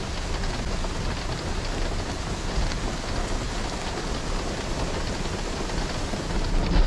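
Heavy rain pouring down steadily, with a brief low thump just before the end.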